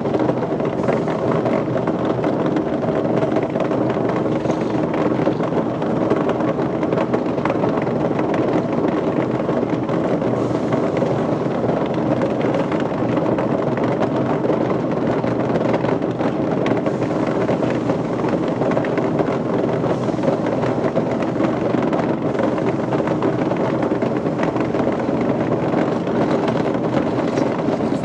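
Machinery running steadily: a constant hum that holds the same level throughout, with no knocks or changes.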